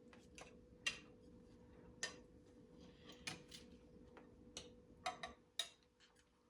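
About ten light, sharp clicks and taps at uneven intervals, like small objects being handled, over a faint steady hum.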